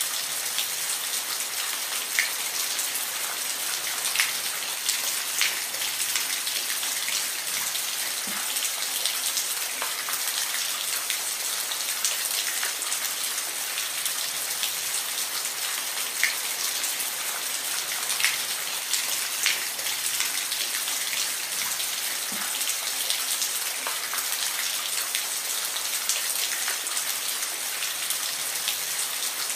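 Steady rain falling, a dense even hiss with individual drops ticking here and there.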